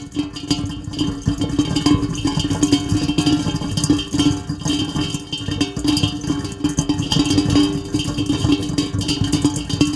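Heavy rain: a dense, steady patter of drops over a steady low hum.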